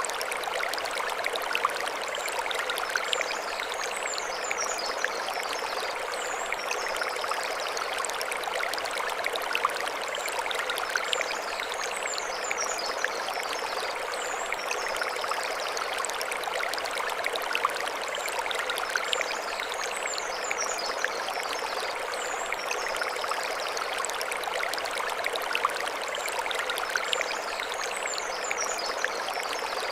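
Mountain stream flowing over stones, a steady rushing babble, with birds singing high above it in short phrases that recur every few seconds.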